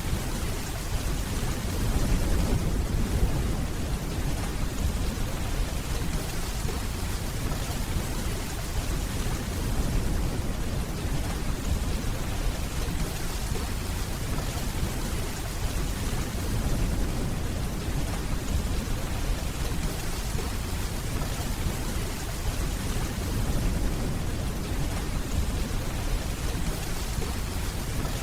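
Steady, heavy rainfall, with low rolls of distant thunder swelling up a few times.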